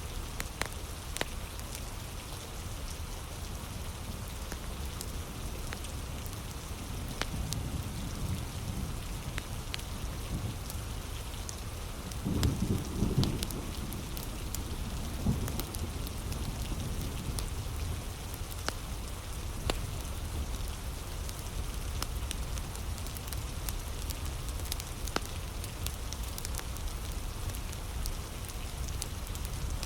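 Heavy rain falling steadily, with the sharp crackles and pops of a wood fire scattered through it. About twelve seconds in, a low rumble swells for a few seconds.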